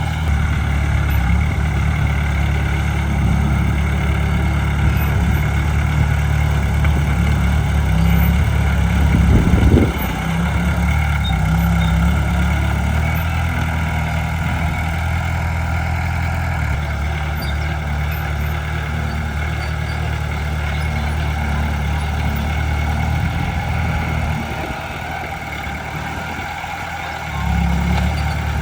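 Heavy diesel engines of earthmoving machinery running steadily at a low, even pitch, with a brief louder surge about nine seconds in and a quieter stretch near the end.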